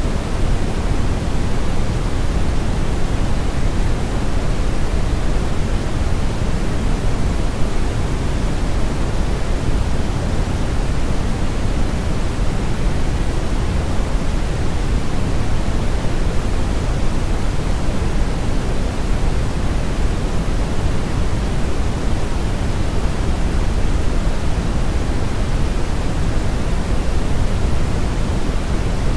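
Brown noise: a steady, unchanging hiss-like rumble, strongest in the low end with the highs rolled off, like the sound of a river current or strong wind.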